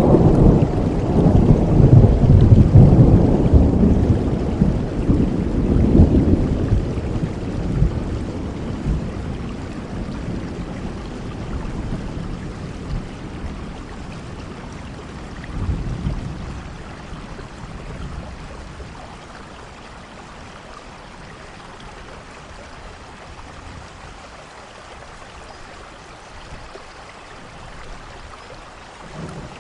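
Steady rain falling, with a long rolling rumble of thunder at the start that slowly fades away, a brief fainter rumble about halfway through, then rain alone, and a new rumble beginning at the very end.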